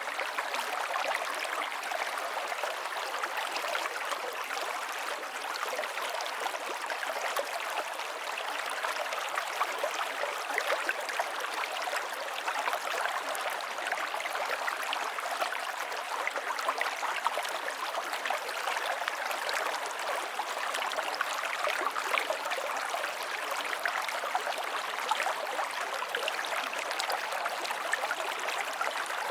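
River water flowing and splashing steadily over rocks, a continuous rushing with fine bubbling detail and no lows.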